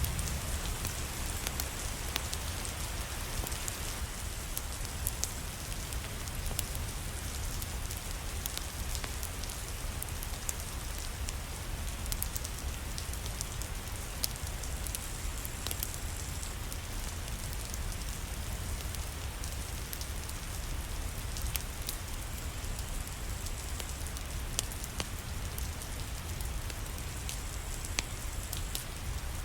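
Steady rain with a low rumble underneath, mixed with frequent sharp crackles and pops from a wood fire in a fireplace.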